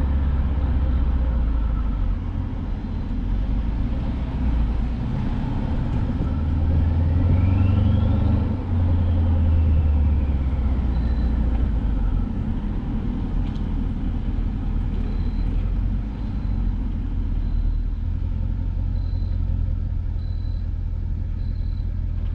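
Mercedes-Benz W222 S550's twin-turbo V8 exhaust with the resonators deleted, running with a steady deep rumble that dips briefly about eight seconds in.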